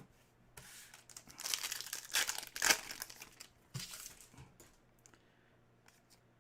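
Plastic trading-card pack wrapper crinkling and tearing, mostly in the first three seconds, followed by a few light clicks and rustles of handled cards.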